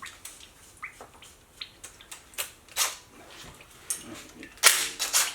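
Hand tools clicking and clinking against metal parts of a V8 engine being dismantled, with scattered sharp clicks and a louder, longer scraping noise about four and a half seconds in.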